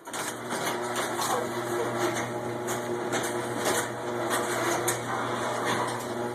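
Electric garage door opener starting up and running as the door closes. It is a steady motor hum with rattling clicks over it, starting suddenly at the press of the button.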